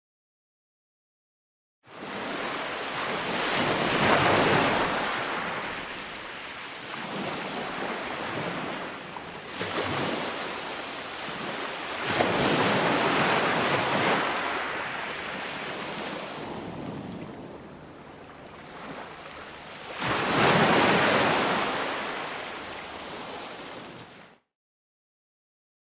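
Ocean waves breaking and washing up, three large surges swelling and falling back about every eight seconds. The sound begins after a moment of total silence and cuts off to silence again near the end.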